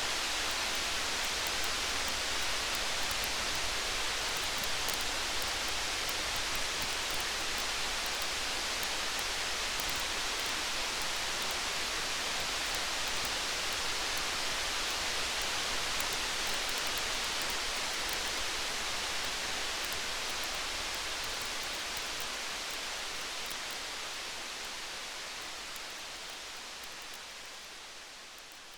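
Steady hiss of rain with faint crackles of a campfire, fading out slowly over the last several seconds.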